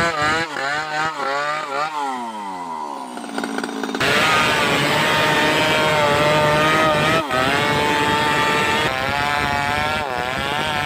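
Two-stroke chainsaw engine revved up and down several times, then held at high revs with a steady, high-pitched whine.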